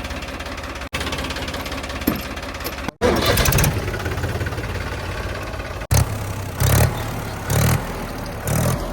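Heavy diesel engine running with a steady, pulsing rumble. It is broken by a few abrupt dropouts, and louder surges come about once a second near the end.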